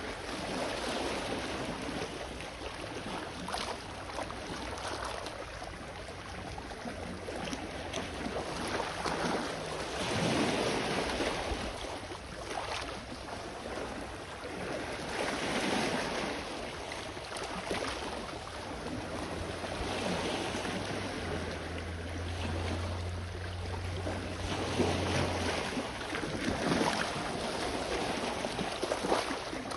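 Sea waves washing onto the shore, the surf swelling and falling every few seconds, with a low steady hum underneath that grows louder for a few seconds past the middle.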